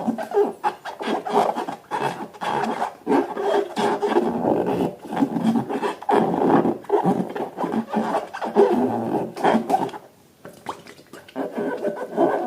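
Rubber balloons being rubbed and squeezed by hand, a run of irregular rubbing strokes that drops away briefly about ten seconds in.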